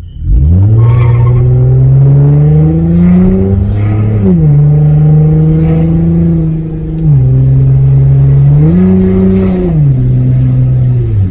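Car engine accelerating hard from a standstill in Sport Plus mode, loud throughout. Its pitch climbs for several seconds, then drops and rises again a few times as the car keeps pulling.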